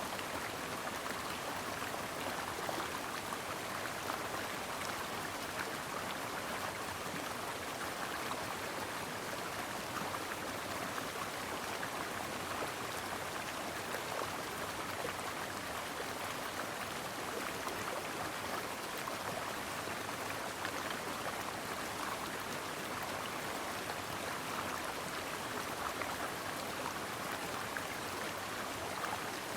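A brook flowing over rocks: a steady rush of water with many small splashes and trickles through it, unchanging throughout.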